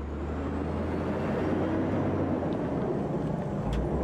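Heavy road train's diesel engine running with a steady low rumble, slowly growing louder.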